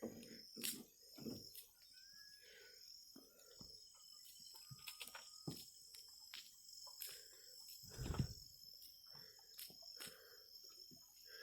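Faint outdoor ambience: a steady high insect chirring, with scattered light clicks and a dull thump about eight seconds in.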